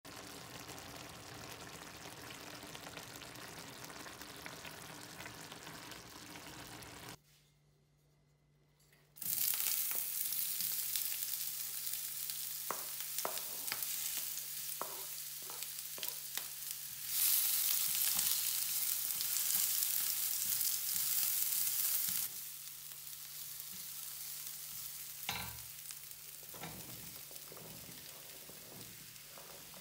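Onions frying in hot oil in a pan, a steady sizzle broken by clicks and knocks as food and a wooden spatula hit the pan. The sizzle swells for a few seconds midway and then settles. A steady low hum runs underneath.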